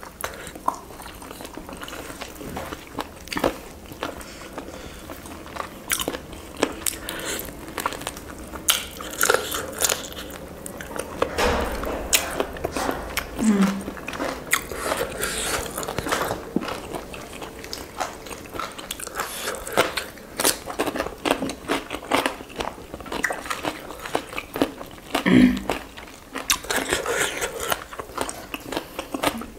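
Close-miked chewing and biting: wet mouth smacks, crunches and small clicks as two people eat roast chicken and vegetables with their hands.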